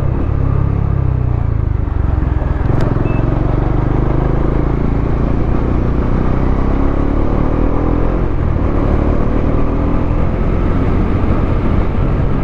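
Bajaj Dominar 400's single-cylinder engine running as the motorcycle rides along, its note climbing for a few seconds as it accelerates, then dropping about eight seconds in.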